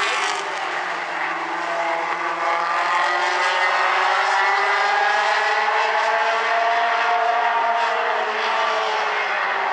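A pack of mini stock race cars' four-cylinder engines running hard at racing revs. Several engines sound at once, their pitch rising and falling as the cars accelerate and pass.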